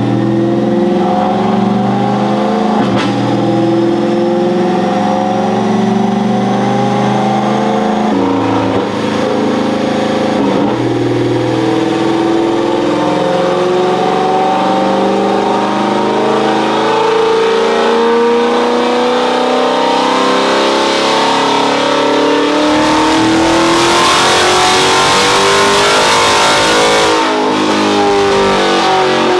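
Turbocharged pickup truck engine running hard under load on a chassis dyno during a power pull, the revs climbing and changing. A rushing hiss builds in the last several seconds.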